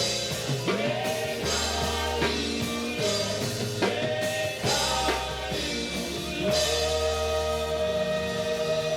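Live gospel praise music: a church band with drum kit, bass and keyboard, with voices singing and gliding notes, settling into a long held chord about six and a half seconds in.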